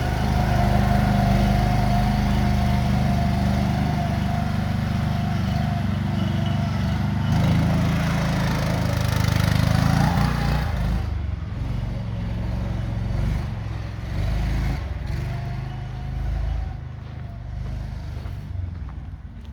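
Compact tractor's engine running steadily, rising in level about eight to ten seconds in, then easing off and running quieter and duller through the second half.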